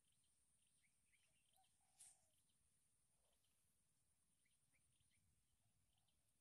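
Near silence on a riverbank: faint, scattered bird chirps over a steady, faint high-pitched drone, with one soft tap about two seconds in.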